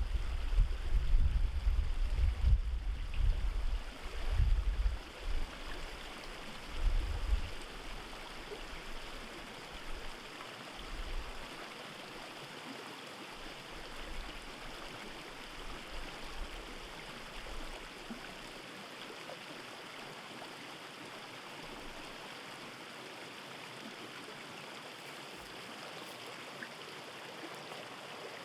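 Stream running steadily, a constant rushing of water. Over the first several seconds, irregular low buffeting of wind on the microphone comes and goes, then dies away.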